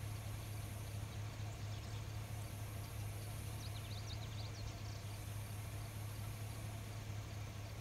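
Insect chorus: a high, steady buzzing that swells and fades in waves about every two to three seconds, with a brief cluster of short chirps about halfway through.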